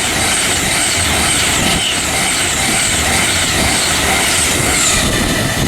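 Class 390 Pendolino electric train passing through the station at speed: a loud, steady rush of wheels on rail and air, with a high hiss over it.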